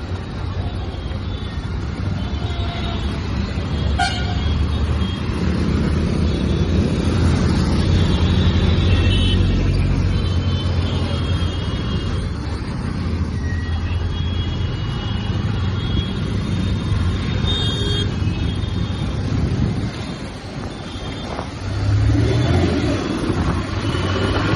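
TVS Apache motorcycle riding through city traffic, its engine and road noise running steadily, with vehicle horns honking several times.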